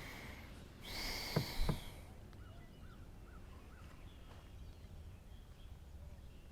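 Two low knocks and a brief rushing hiss about a second in, then a bird calling four short notes that rise and fall.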